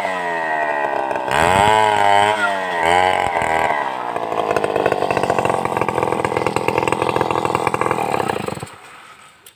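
Chainsaw cutting wood lengthwise into boards, its engine pitch rising and falling under load, then holding steadier. The sound drops away sharply near the end.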